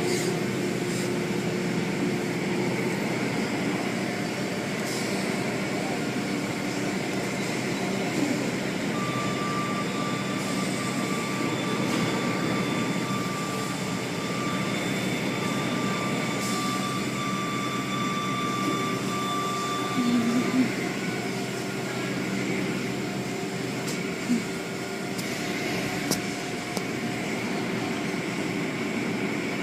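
Automatic car wash machinery running: a steady mechanical din with a constant hum, and a thin steady whine for about ten seconds midway through.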